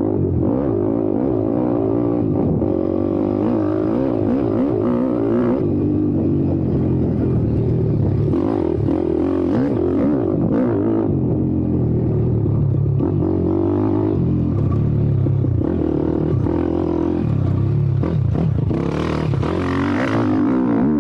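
YCF 190 Daytona pit bike's four-stroke single-cylinder engine revving up and down as it is ridden hard on a dirt track. About nineteen seconds in there is a short, brighter rush of noise.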